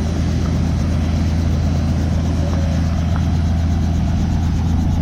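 Tour helicopter running on the ground, its engine and rotor making a loud, steady low drone.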